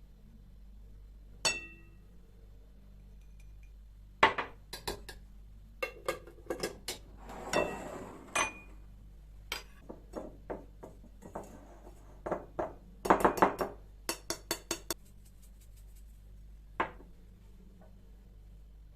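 Kitchenware being handled: scattered clinks and knocks of dishes, glass and utensils, one ringing clink early on, a short scrape in the middle and a quick run of taps about two-thirds through.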